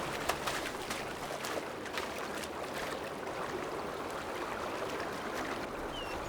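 Shallow river water splashing and flowing as a bull elk wades in, with several sharp splashes in the first few seconds that settle into a steady run of water.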